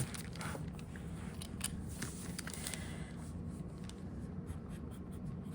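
Light handling sounds at a desk while an ink splat is made on crinkled paper: scattered small clicks and soft scrapes of paper and tools, over a low steady hum.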